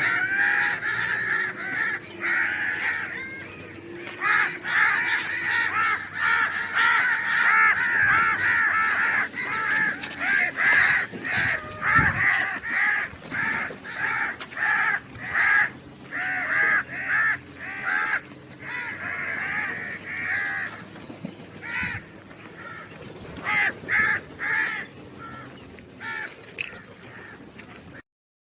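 Crows cawing over and over, one harsh call after another in quick succession, the calls thinning out after about twenty seconds.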